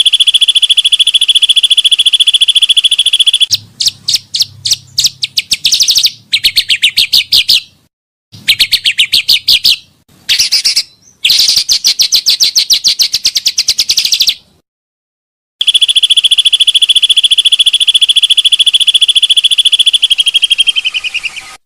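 Pancawarna bird song, played as a lure and song-training call: rapid trills of fast-repeated high notes in several phrases, with brief breaks and a longer pause about two-thirds of the way through.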